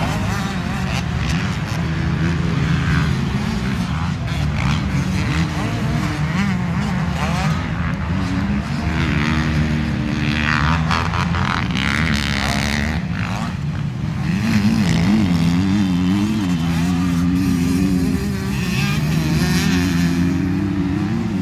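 Motocross motorcycle engines running hard on the track, their pitch rising and falling again and again as the riders open and close the throttle.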